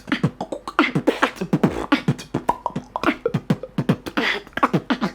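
Beatboxer performing a fast beat built around the tennis pop: a dense, even rhythm of short pops, many dropping quickly in pitch, mixed with clicks and hissing sounds.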